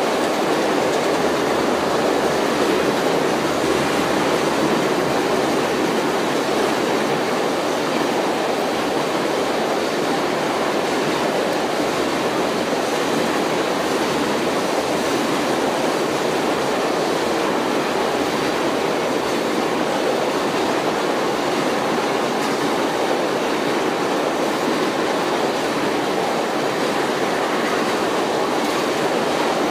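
Freight train of tank cars rolling past, with steel wheels running steadily on the rails.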